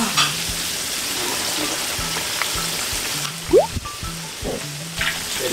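Batter- and panko-coated corn dog sausage frying in a wok of hot oil: a steady bubbling sizzle, under background music. A brief rising tone sounds about halfway through.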